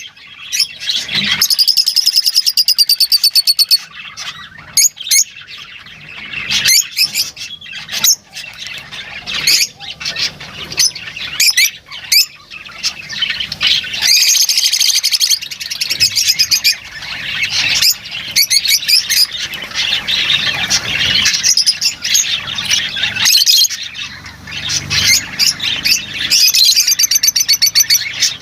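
Lovebirds chattering and calling: a steady run of high chirps, sharp squawks and fast trills, with several louder rapid trilling bursts.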